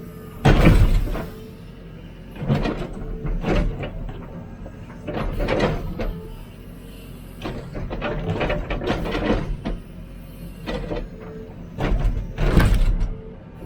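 Hidromek 102B backhoe digging: its engine and hydraulics run with a steady whine while the bucket scrapes and knocks through hard ground in repeated bursts. The loudest bursts come about half a second in and near the end.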